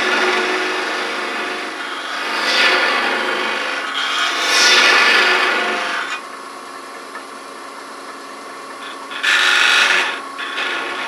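Wood lathe running while a small detail gouge cuts into the spinning wood, the cutting hiss swelling and easing over the first six seconds. After that only the lathe's steady hum is left, with one more short cut about nine seconds in.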